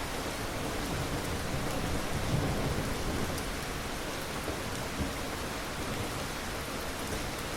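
Steady rain falling, with low thunder rumbling underneath.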